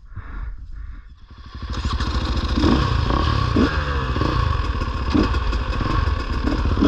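Dirt bike engine running, quiet at first and then getting louder about a second and a half in as the bike pulls away; it keeps running steadily under load after that.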